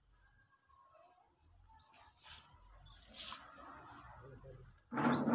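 Birds chirping now and then, with short calls about two and three seconds in and again near the end. A louder brief noise comes near the end.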